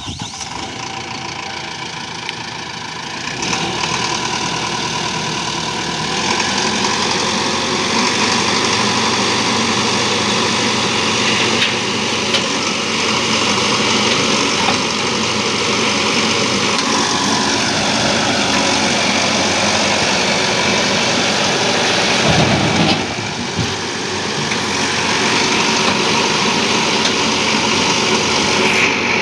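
Diesel engines of a JCB backhoe loader and tractors running steadily while soil is loaded into a trolley. The engine pitch drops a little past halfway through, and there is a brief louder surge about three-quarters of the way in.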